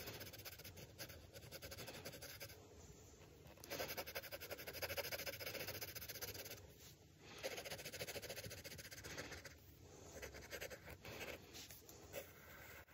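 Drawing on paper: the tip scratching across the sheet in quick back-and-forth strokes, with two brief pauses, about seven and ten seconds in.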